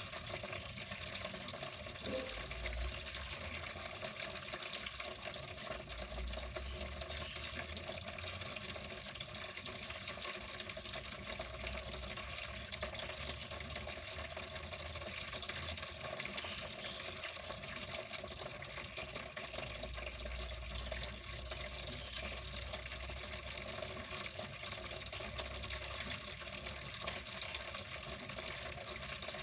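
Water flowing steadily, an even unbroken splashing rush.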